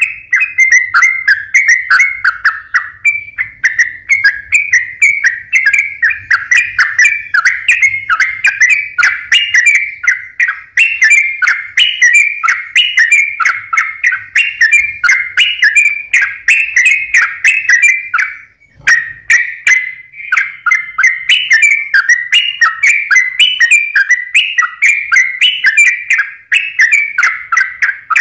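Yellow-vented bulbul (trucukan) singing non-stop in a loud, busy stream of quick chattering notes, with one short break about two-thirds of the way through.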